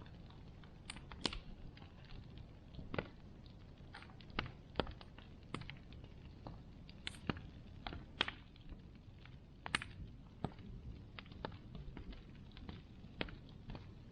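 Wood bonfire crackling: irregular sharp pops and snaps, roughly one a second, over a low steady rumble of the burning fire.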